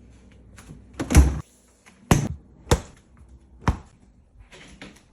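Knocks and thuds of food containers being set into a refrigerator and against its shelves: four sharp knocks, the first about a second in the heaviest, then some rustling near the end.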